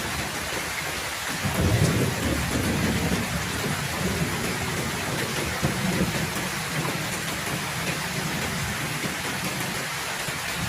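Heavy rain falling steadily, with a low roll of thunder that swells about a second and a half in and slowly fades over the next several seconds.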